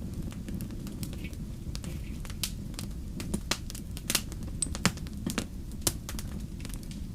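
Wood campfire crackling, with irregular sharp pops of burning wood, a few louder ones about four to six seconds in, over a steady low rumble.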